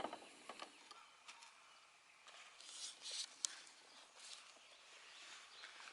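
Faint rustling with scattered light clicks and taps, and one sharper click about three and a half seconds in.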